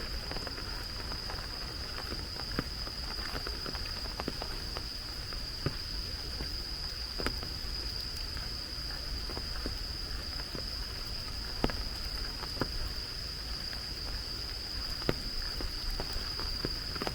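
Steady rain, with scattered sharp taps of drops. A constant high-pitched whine runs underneath.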